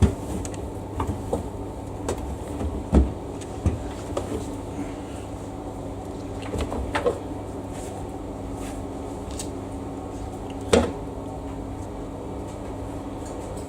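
A steady mechanical hum with scattered knocks and clatters on top, the sharpest about three seconds in and near eleven seconds.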